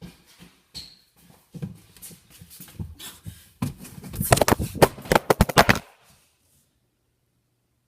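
An irregular run of knocks and rustling that thickens into a fast, loud clatter of sharp strokes for about two seconds, then stops abruptly and leaves silence.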